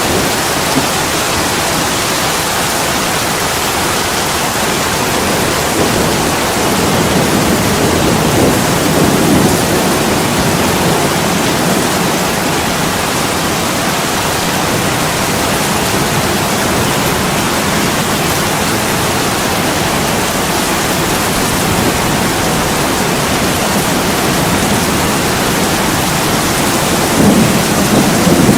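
Heavy rain pouring on an attic window, a steady dense hiss. Low rumbling swells rise about a third of the way in and again near the end.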